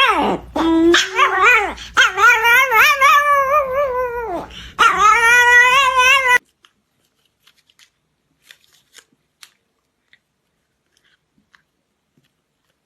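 Dog howling: three long, wavering calls, the first falling away at its end. They cut off about six seconds in, and only a few faint clicks follow.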